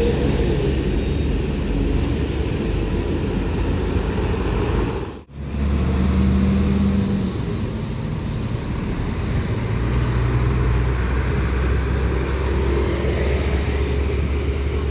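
Heavy diesel trucks driving past on a road, their engines running with a steady low drone; the sound cuts out for a moment about five seconds in.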